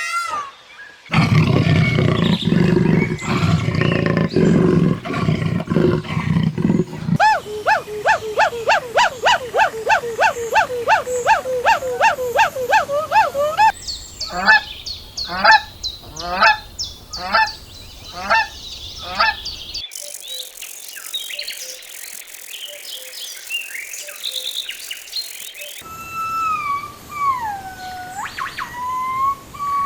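A run of different animal calls, cut one after another: first a low, rough call, then a fast series of repeated honking calls rising slightly in pitch, then slower repeated calls, and finally chirps and gliding whistle-like calls.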